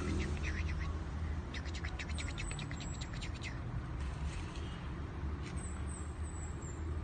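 Small birds chirping in a rapid run of sharp, high notes for about two seconds, over a steady low rumble.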